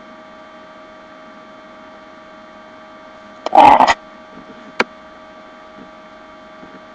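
Steady electrical hum with several fixed high tones over it, broken about three and a half seconds in by a short, loud noisy sound and, about a second later, a single sharp click.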